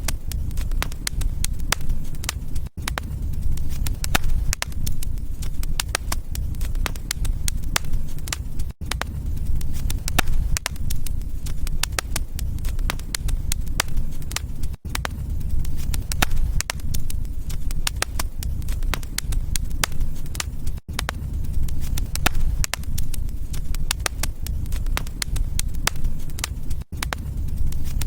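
Wood fire crackling and popping over a steady low rumble of flame, with brief dips in loudness about every six seconds.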